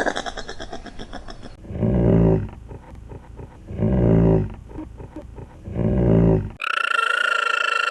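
A short high call, then three low calls from a large animal about two seconds apart, each under a second long. Near the end it cuts abruptly to a different, steady high-pitched animal cry.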